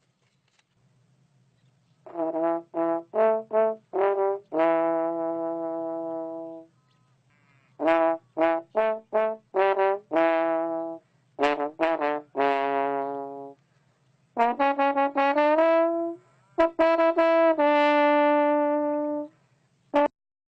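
A brass instrument playing four phrases, each a run of quick short notes ending on a long held note that fades away, with a faint low hum underneath.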